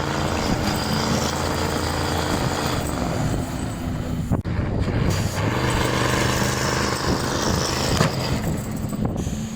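Big diesel truck engine running steadily, its pitch sagging slightly at times, with a brief sharp break in the sound about four and a half seconds in.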